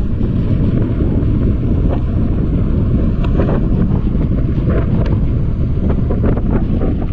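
Wind buffeting the microphone, a loud, steady, low rumble, with a few faint brief knocks.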